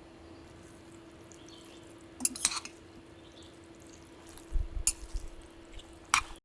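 A few sharp clicks and clinks of small objects being handled, about two seconds in and again near the end, with a soft low thump between them, over a steady low hum.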